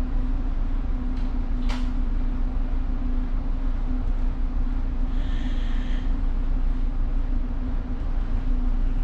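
Tanker ship's engine and machinery running with a steady low hum and rumble. About five seconds in, a short higher-pitched sound lasting about a second.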